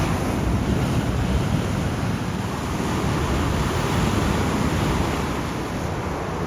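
Atlantic surf washing on the shore, a continuous rush that swells and eases, with wind buffeting the microphone.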